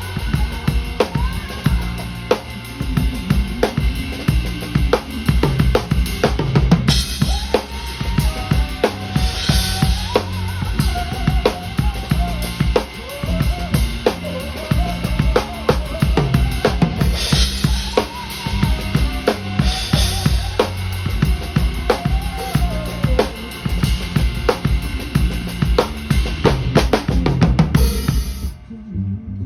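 Live band playing a groove, led by a drum kit with bass drum, snare and rimshots over a heavy bass line, with cymbal crashes and a gliding melodic line on top. The band stops abruptly near the end.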